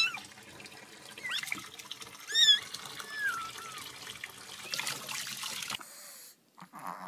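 A kitten mewing: a series of about six short, thin, high-pitched cries, the loudest at the start and about two and a half seconds in, over a faint steady hiss of running tap water.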